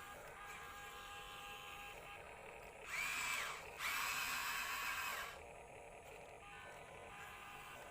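Small electric motors of a radio-controlled toy vehicle whirring steadily. There are two louder spin-ups, about three and four seconds in, each rising in pitch, holding, then winding down.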